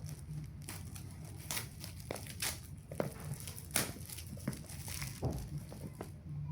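Packaging being handled during a smartwatch unboxing: irregular crinkling and tearing rustles with scattered sharp clicks.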